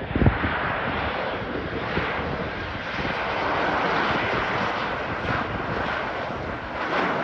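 Embraer E195LR jet airliner's twin General Electric CF34 turbofans heard as a steady jet roar as it flies past on its landing. There is a brief low buffet just after the start.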